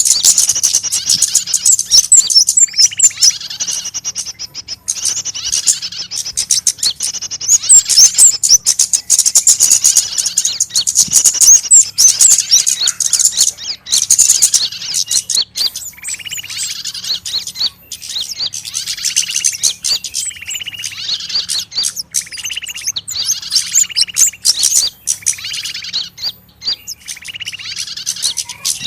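Bird-luring call recording of small birds chirping and calling without pause: dense, rapid high-pitched chirps, with lower notes repeating every second or two, the kind of agitated flock and trapped-bird calling played to draw small birds in.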